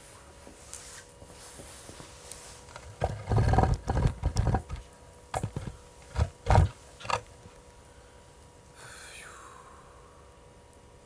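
Wood campfire burning with a faint steady hiss. In the middle there is a run of loud, low thumps and rumbles lasting about four seconds, and near the end a short falling whistle.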